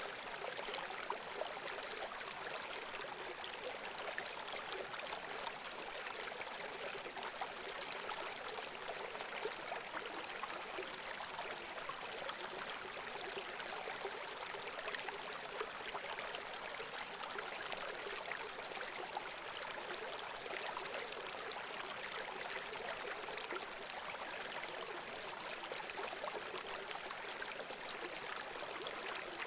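Running water flowing steadily in a small stream, an even rushing with a fine trickling texture that holds constant throughout.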